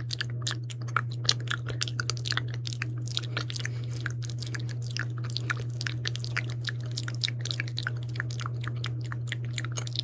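Close-miked ASMR mouth sounds: a rapid run of wet, sticky clicks and smacks of lips and tongue, several a second, over a steady low hum.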